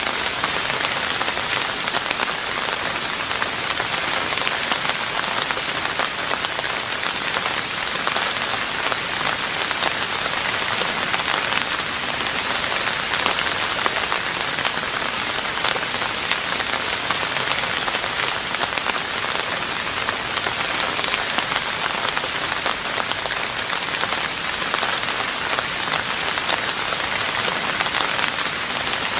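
Steady rain falling on a roof, with a dense stream of small drop hits that holds even throughout.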